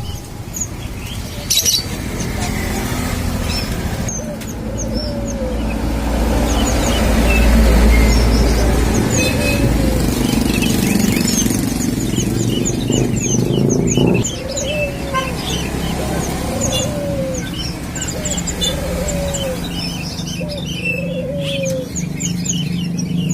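Albino puter dove cooing in courtship of a female: a run of short arched coos, repeating every second or two and most regular in the second half. Many small birds chirp high and fast behind it, and a low rumble swells in the middle.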